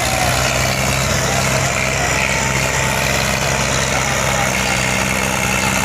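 Diesel tractor engines running steadily together with an even, low hum.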